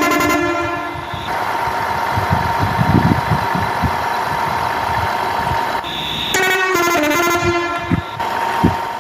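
Electronic horn sound of a toy tractor, sounding twice: once at the start and again, with stepping pitches, about six seconds in. A steady electronic hum and low knocks run between the two.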